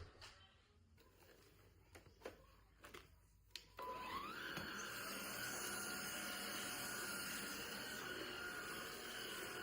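Klarpul cordless battery vacuum cleaner switched on about four seconds in: its motor spins up with a short rising whine, then runs steadily. A few light clicks of handling come before it.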